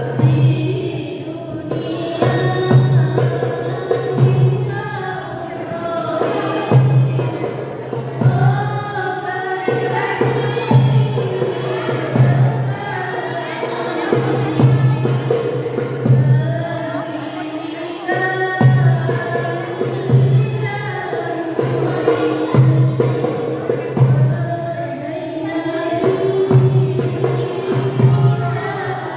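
Voices singing sholawat, Islamic devotional praise songs, to a steady beat of low drum strikes with tambourine-like percussion.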